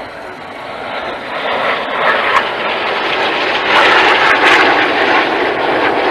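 Jet engine roar of the Red Arrows' BAE Hawk T1 jets in a low flypast, swelling over the first few seconds and staying loud, with a crackling edge, from about four seconds in.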